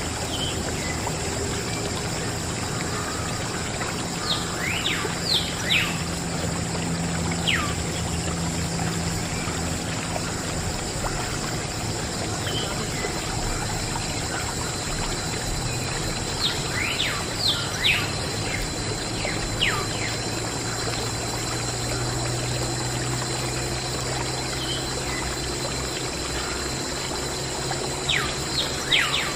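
Water pouring steadily. Groups of short, falling, bird-like whistles come about every twelve seconds.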